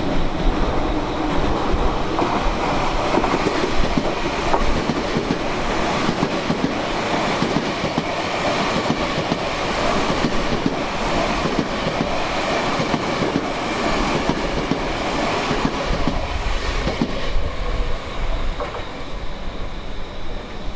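Tobu Tojo Line electric train running past, its wheels clattering steadily over the rails, with wind buffeting the microphone at the start and near the end.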